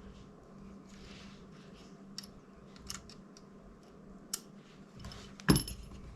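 Light clicks and taps of small plastic drone parts and tools being handled, with one louder knock about five and a half seconds in.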